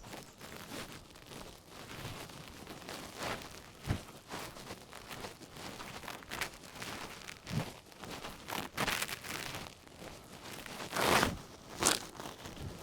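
Footsteps crunching and scuffing on a walking trail, uneven and roughly one a second, with rustling between them; the loudest steps come near the end.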